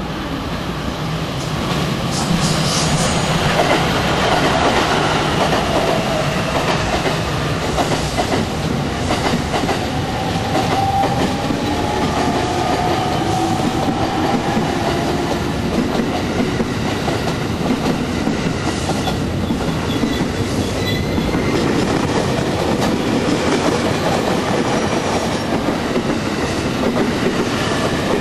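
Sobu Line electric commuter train running past at close range: steady rumble with wheels clattering over the rail joints. A faint whine slides up and down in pitch under the clatter, and the sound swells in the first couple of seconds as the train draws near.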